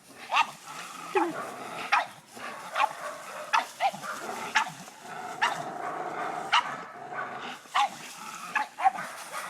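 Dog barking in short, sharp yips, about once a second, while playing with a rope.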